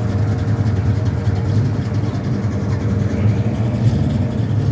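A first-year Studebaker Avanti's V8 running at a steady low idle as the car rolls slowly past at close range: a constant low rumble with no revving.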